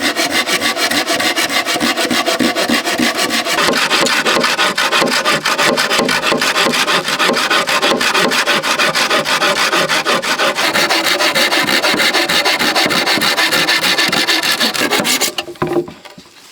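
Hand saw cutting with rapid, even back-and-forth strokes. It stops abruptly about 15 seconds in.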